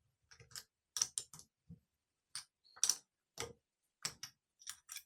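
Ratchet wrench clicking in short irregular runs as a nut on a starter motor's solenoid terminal is run down.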